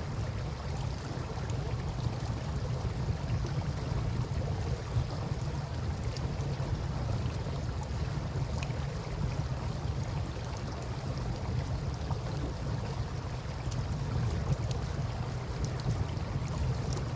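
Wood campfire crackling, with scattered small pops and ticks, over a steady low rushing of river water.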